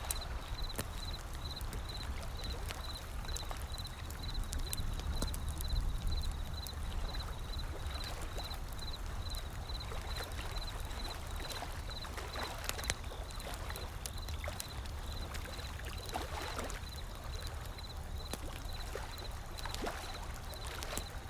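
Wood fire crackling with irregular sharp pops over the steady low rush of ocean waves.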